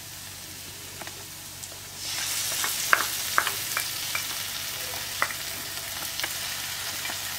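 Onion-garlic masala sizzling gently in a hot kadai; about two seconds in, tomato ketchup poured into the pan makes the sizzle louder, with scattered small crackles and pops.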